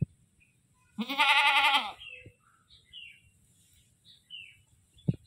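A goat bleats once, a loud wavering bleat about a second long starting about a second in. Faint short high chirps follow, and there is a sharp thump near the end.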